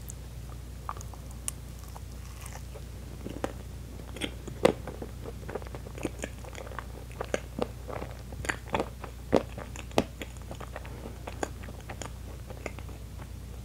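Close-miked eating of a bite of strawberry-mousse honey-pot Baumkuchen: biting, then chewing heard as a run of mouth clicks, sparse at first and thickest from about four to eleven seconds in, over a steady low hum.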